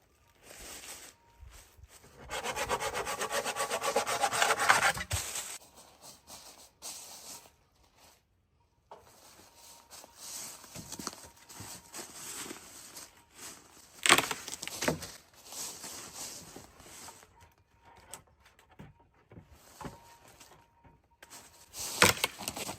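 Wood being worked with hand tools: a few seconds of rapid, rhythmic rasping like sawing about two seconds in, which is the loudest part, then scattered knocks and scraping of wood on wood, with sharp knocks near the middle and near the end.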